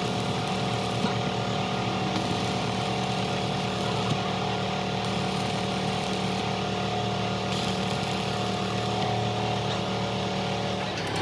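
A motor-driven shop machine running steadily, with a constant hum.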